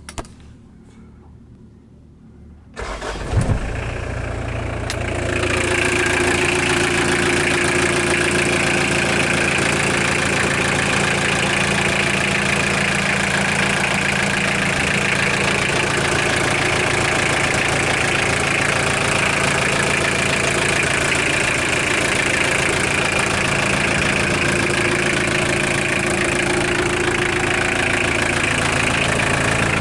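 Mitsubishi Canter truck engine cranked and catching about three seconds in, then running at a steady idle; the owner is listening for a knock in it.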